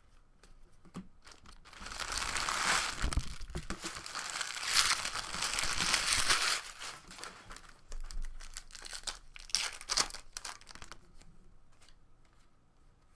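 A foil trading-card pack wrapper being torn open and crinkled, a dense crackling for several seconds, followed by lighter crinkles and clicks that die away.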